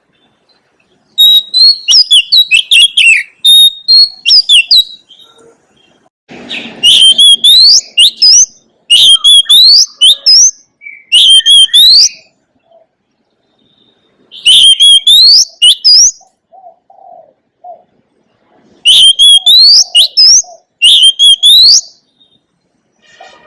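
Oriental magpie-robin singing: loud, rapid, varied whistled phrases in bursts of one to two seconds with short pauses between them.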